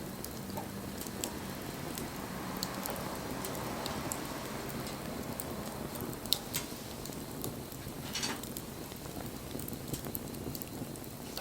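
Wood fire burning, with scattered sharp crackles and pops over a steady low rush of flame, and a short hiss about eight seconds in.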